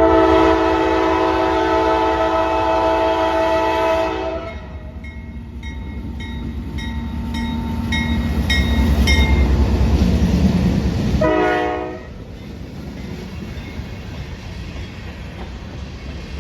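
CSX freight locomotive's horn sounds a loud, steady chord for about four seconds, then a short second blast just after eleven seconds in. In between, a crossing bell pings about twice a second while the locomotive's rumble builds, and after the second blast the rumble of the passing rock train's cars goes on steadily.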